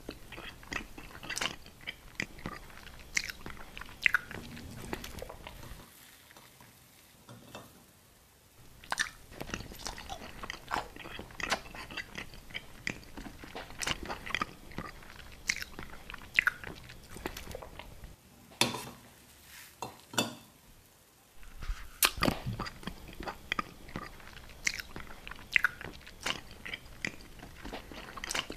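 Close-miked ASMR eating sounds: crunchy chewing and biting with many sharp mouth clicks and crackles. The sounds pause twice, about a quarter of the way in and again about two-thirds of the way through.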